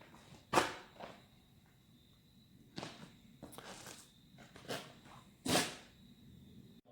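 About half a dozen short, scattered knocks and scuffs of handling noise, separated by quiet gaps, cut off abruptly near the end.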